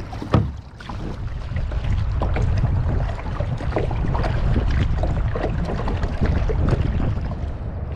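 Kayak paddling: paddle strokes splashing and dripping, with scattered small knocks and one sharper knock near the start, under a steady wind rumble on the microphone.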